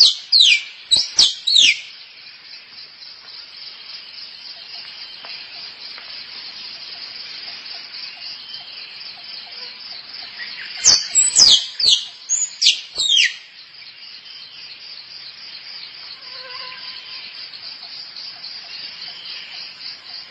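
Squirrel calls: two bouts of several sharp notes, each sliding steeply down in pitch, one at the start and one about eleven seconds in. Behind them runs a steady, high insect chirring.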